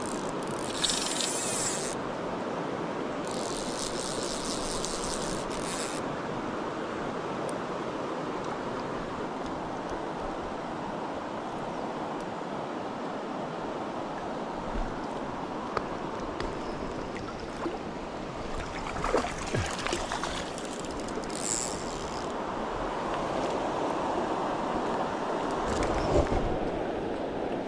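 River water rushing steadily around a wading angler. A fly reel's drag sounds in short runs near the start and again about 21 seconds in as a hooked trout pulls line, and there is a splash near the end as the fish is brought to the landing net.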